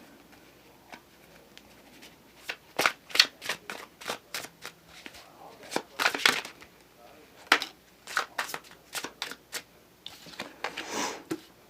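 A tarot deck being shuffled and handled: a run of irregular sharp card snaps and slaps, with a softer rustle near the end as a card is drawn.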